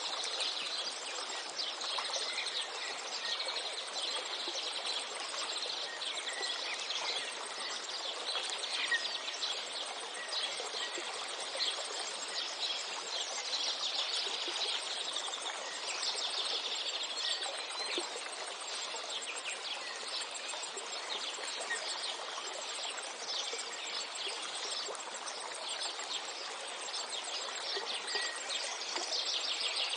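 Outdoor nature ambience: many small birds chirping in short, quick calls over a steady background hiss.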